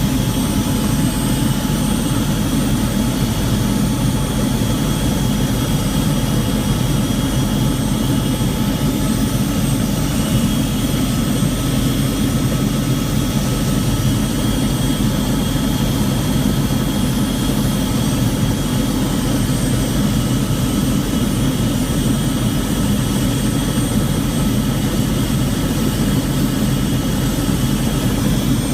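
Helicopter in flight heard from inside the cabin: a steady, loud engine and rotor rumble with faint steady high-pitched whines over it.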